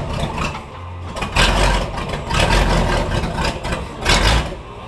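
Small-block Chevy V8 in a lifted Jeep YJ running under load as the Jeep creeps forward, the throttle stabbed so the engine revs up in short surges, three times.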